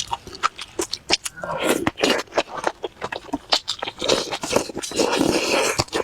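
Close-miked eating sounds: irregular wet chewing and lip-smacking clicks, with a few longer noisy stretches in between.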